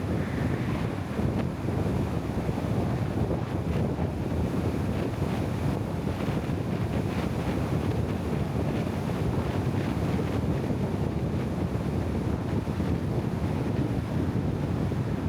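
Steady wind noise buffeting the microphone, with a constant low rumble underneath and no distinct events.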